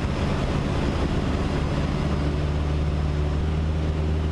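Cessna 152's Lycoming O-235 four-cylinder engine and propeller droning steadily in flight, heard inside the cabin. The low drone firms up slightly about a second and a half in.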